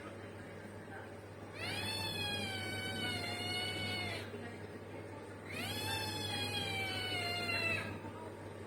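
A cat meowing twice, two long drawn-out meows of about two and a half seconds each, each rising at the start and then falling slightly.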